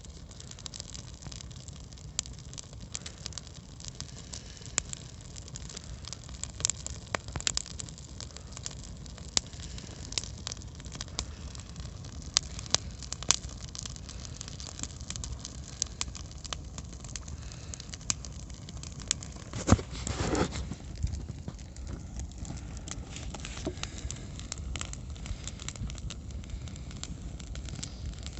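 Campfire burning and crackling, with frequent sharp, irregular pops and snaps over a steady low rumble. A louder rush of noise comes about two-thirds of the way through.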